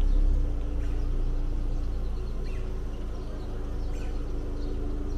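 A car running at low speed, giving a steady low engine and road rumble with a constant hum, and faint short chirps above it.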